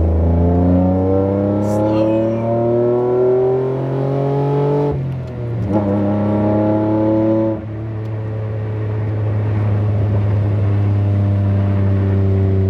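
Nissan Maxima's 3.0 V6 through a straight-through 3-inch Megan catback with all catalytic converters deleted, accelerating with its pitch climbing. It changes gear about five seconds in and again about seven and a half seconds in, then holds a steady drone.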